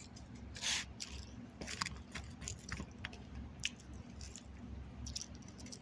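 A person chewing food close to the microphone: irregular mouth smacks and small clicks, the loudest about half a second to a second in.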